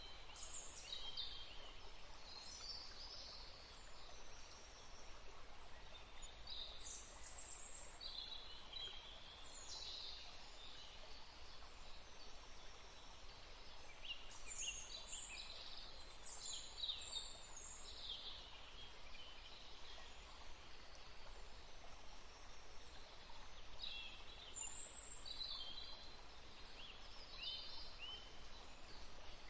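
Small songbirds chirping and twittering in scattered clusters of short, high calls over a faint, steady hiss.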